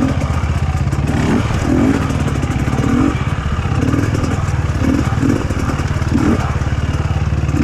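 Dirt bike engine running steadily at low revs, with an irregular throb every half second to a second.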